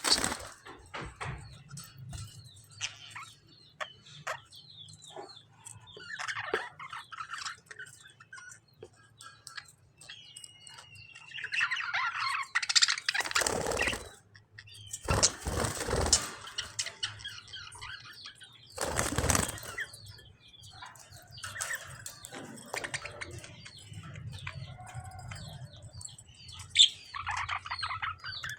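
Small cage birds, lovebirds and budgies, chirping and squawking in quick short calls, with three loud flurries of wing flapping in the middle as the birds scuffle.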